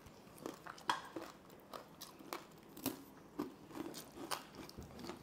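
Close-miked chewing and biting of crispy fried food, with sharp, irregular crunches several times a second.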